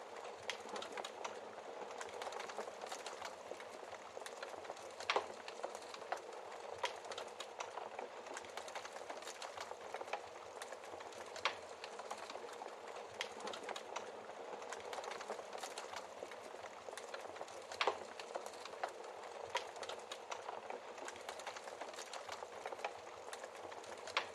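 Wood fire burning in a fireplace: a steady hiss with constant small crackles and a few louder pops.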